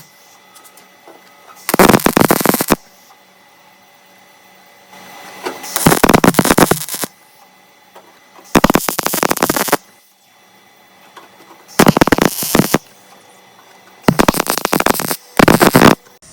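Welding arc crackling in six short bursts of about a second each, tack-by-tack stitch welding of a steel car quarter panel, with a low steady hum in the gaps between welds.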